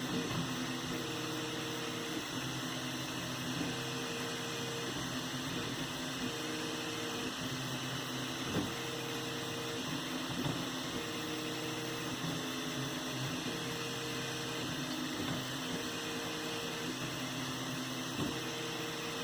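3D printer running a print: its stepper motors hum in short pitched tones that start, stop and change pitch every second or so as the head moves, over steady noise, with a couple of light clicks.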